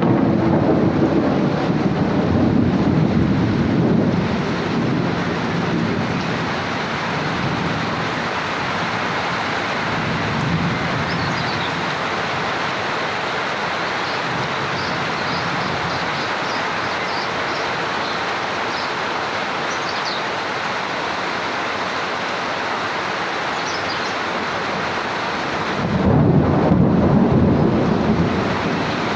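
Steady rain falling, with a rumble of thunder at the start that fades over the first five seconds or so, and another rumble of thunder near the end.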